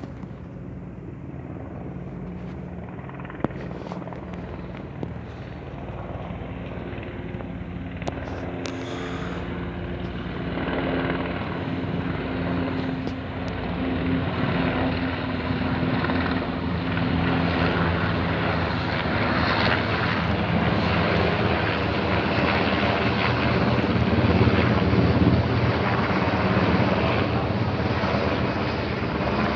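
Military transport helicopters flying over, their rotor and turbine sound growing steadily louder as they approach.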